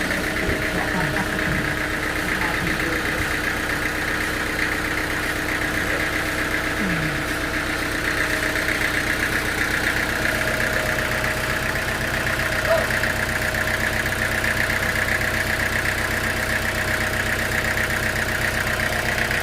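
Sawmill machinery running steadily: an engine-driven drone with a constant higher hum over it, holding the same pitch and level throughout.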